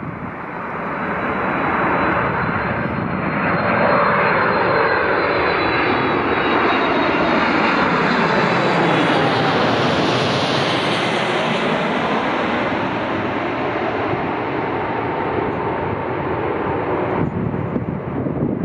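Jet airliner passing by: its engine noise swells over the first few seconds, holds loudest through the middle, then eases off gradually, with a thin high whine over it in the first half.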